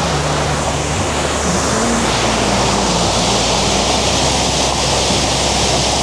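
A steady rushing noise, with a quiet melodic music line of held and gliding notes underneath.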